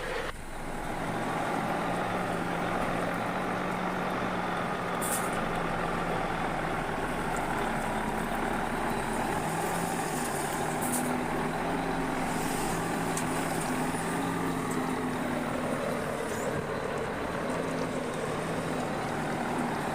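Bulldozer's diesel engine running steadily, with a few short sharp clicks. The engine note rises about halfway through and drops back a few seconds later.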